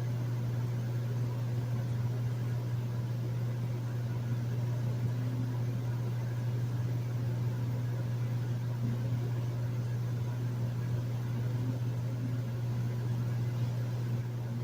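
Hotel room air conditioner running steadily: a constant low hum under an even rush of air.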